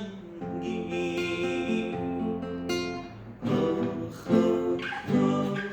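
Instrumental passage of a sad Kurdish song: a plucked string instrument strums chords over sustained accompaniment, with sharp strums about three and a half, four and a quarter, and five seconds in.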